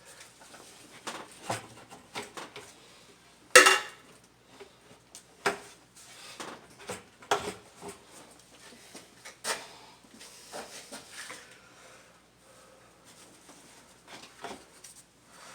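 Scattered metallic clinks and knocks of hand tools and engine parts being handled during disassembly of the engine's top end, with one louder clank about three and a half seconds in.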